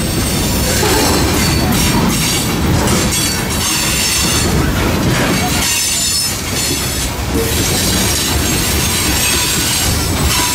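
Freight train cars (covered hoppers, boxcars and tank cars) rolling past close by: a loud, steady rumble and rattle of wheels on rail, with a high-pitched wheel squeal that comes and goes several times.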